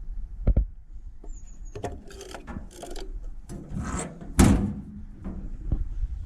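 Irregular knocks, scrapes and clanks of handled gear, with one loud bang about four and a half seconds in.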